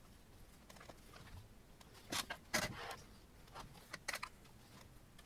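A few short clicks and scrapes of parts being handled during assembly of a 3D printer kit, in a cluster about two to three seconds in and again around four seconds, over faint room tone.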